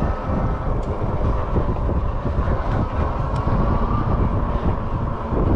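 Wind rumbling on the microphone of a moving e-bike, with a faint steady high whine from the electric motor working in pedal assist on an uphill climb.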